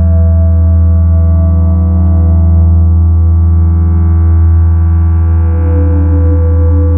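Electronic ambient drone from analog synthesizers and sine-wave generators: a loud, steady low tone under a dense stack of sustained higher tones. About five and a half seconds in, a middle tone starts to pulse.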